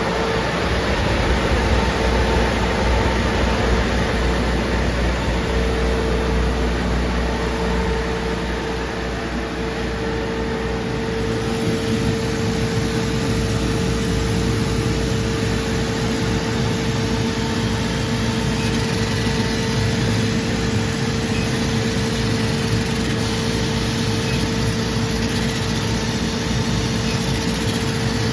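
Laser cutting and engraving machine running with its exhaust fan: a steady whir with a constant hum tone. The sound shifts slightly about eleven seconds in.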